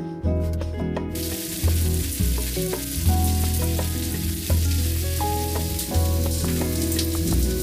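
Food sizzling in a hot frying pan, setting in about a second in and going on steadily, under background music.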